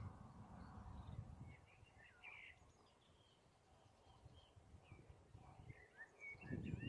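Faint birds chirping and calling in short scattered notes over a quiet background. A low rumble is heard during the first second or so, fades out, and returns louder near the end.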